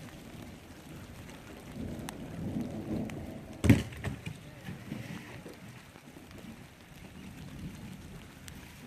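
Thunder rumbling in a rainstorm, with one sharp crack a little before halfway and a few light raindrop ticks.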